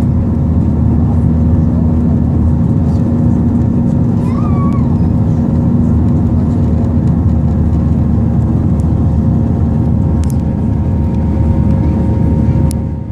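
Steady cabin noise inside an Airbus A320 under way: a loud, even drone of the engines and airflow with a constant low hum.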